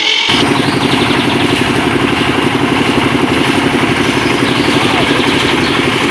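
A small engine running steadily with a fast, even pulse, starting just after a brief cut from music.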